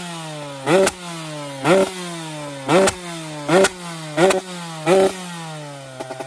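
TM SMR 125 Fi two-stroke engine with a Katrace exhaust, blipped seven times, about once a second. Each blip rises sharply in pitch, then the revs fall away slowly. Near the end the engine drops into an uneven, pulsing low-rev running.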